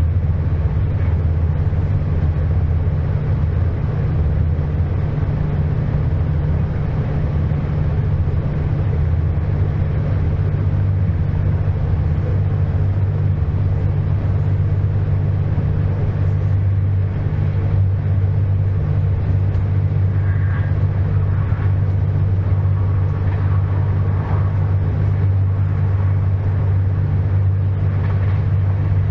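Passenger train running: a steady low rumble with a deep, even hum.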